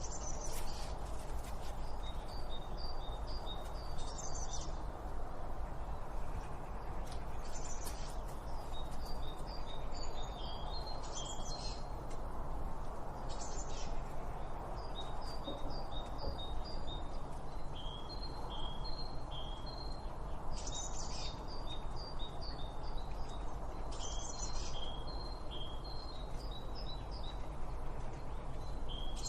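Small birds chirping in quick runs of short, high notes that recur every few seconds, over a steady low background rumble.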